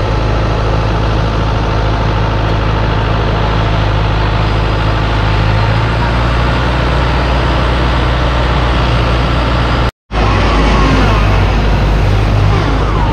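Off-road 4x4 engine running steadily at close range. The sound cuts out briefly about ten seconds in, then the engine carries on.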